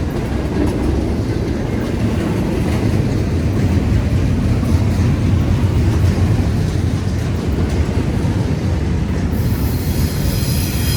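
Train rolling past at close range: a steady, loud low rumble of wheels on the rails. A higher hiss joins in near the end.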